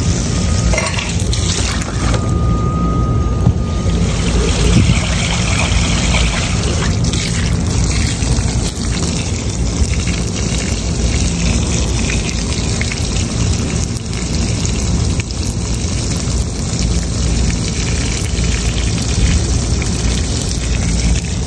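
Water pouring and trickling through a rooftop AC unit's drain pan and drain line as the cleared pan drains. Under it runs a steady low machinery hum.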